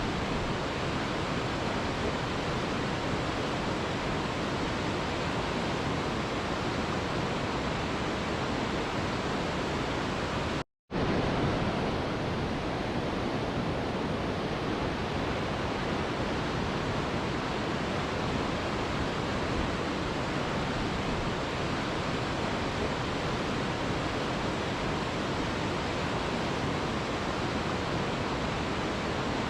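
Mountain river rushing steadily over rocks, an even wash of water noise, broken by a split-second gap of silence about eleven seconds in.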